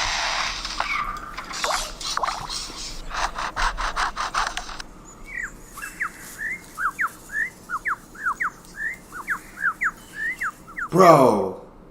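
Superb lyrebird imitating a chainsaw: a rasping mechanical buzz that breaks into rapid clattering strokes, followed by a run of quick, sharply falling whistled notes.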